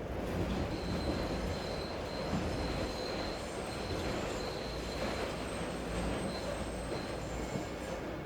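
A train running past, with a high steady squeal that starts about a second in and dies away after about six seconds, over a constant hiss of rain and city noise.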